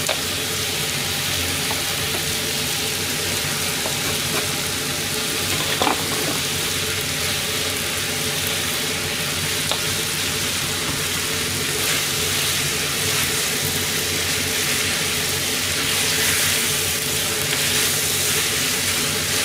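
Pork, udon noodles and vegetables sizzling steadily in a hot frying pan as yaki udon is stir-fried, with a few light clicks of the cooking utensils against the pan.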